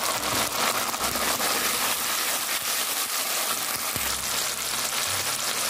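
Chopped onions, ginger-garlic paste and freshly added chopped tomatoes sizzling in hot oil in a non-stick wok: a steady sizzle with fine crackling.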